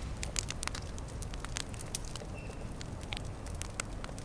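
Small campfire crackling, with irregular sharp pops several times a second.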